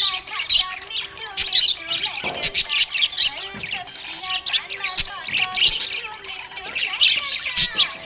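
Several small pet parrots chirping and chattering, many quick overlapping calls and trills with no pause.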